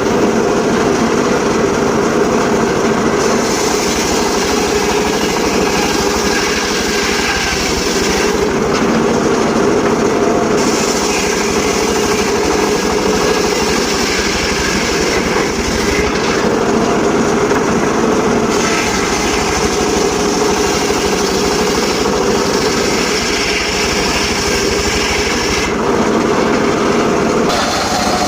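Portable circular sawmill running steadily and cutting teak. A higher hiss comes and goes every few seconds, dropping away briefly three times.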